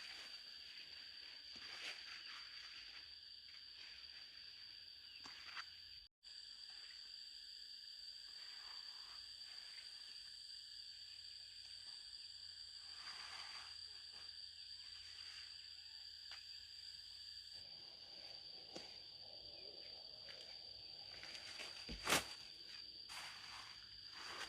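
Insects keep up a steady high-pitched drone, faint, with soft rustling now and then. About 22 seconds in there is a single sharp knock, the loudest sound here.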